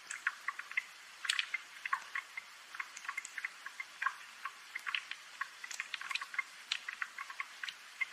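Rain dripping: many irregular small drops ticking and pattering at no steady rhythm over a faint hiss.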